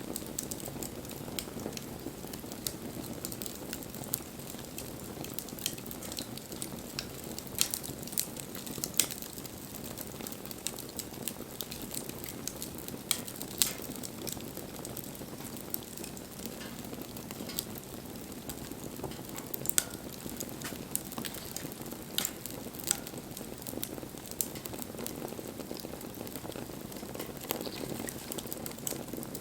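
Wood campfire burning: a steady low rush of flame with irregular sharp crackles and pops, a few of them louder.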